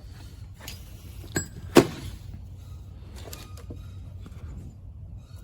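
Scattered metal clinks and knocks of hand tools against trike parts, with a single sharp knock about two seconds in the loudest.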